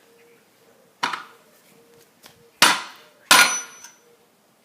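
Three sharp hammer blows on a wooden wedge in a splitting maul's handle, the second and third close together and loudest, the last with a brief metallic ring.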